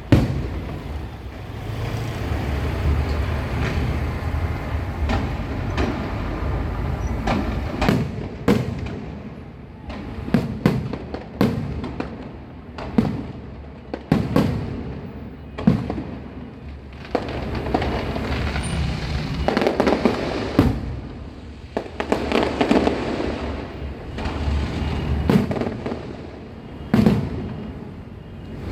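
Fireworks show: shells bursting in irregular succession, with sharp bangs every second or so over a continuous rumble. Denser stretches of crackle come in the second half.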